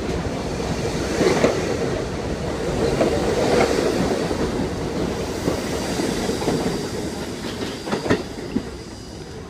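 R68 subway car running on the track, heard from inside the car: a steady rumble with wheels clacking over rail joints and a few sharp clacks about eight seconds in. The noise dies down near the end as the train slows.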